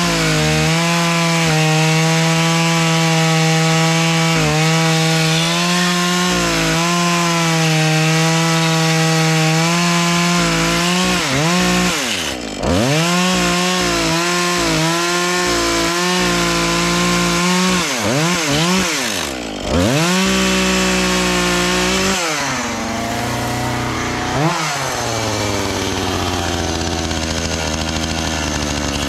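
Two-stroke chainsaw running at high revs. The throttle drops off and picks back up twice. Near the end it runs slower and unevenly, with one short rev.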